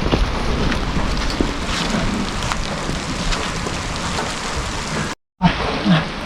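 Rain falling steadily, with many scattered drop ticks over a low rumble; the sound cuts out completely for a split second about five seconds in.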